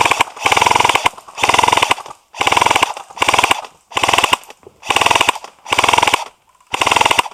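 Airsoft electric gun (AEG) firing a string of short full-auto bursts, about one a second, each a rapid rattle of shots, laying down cover fire.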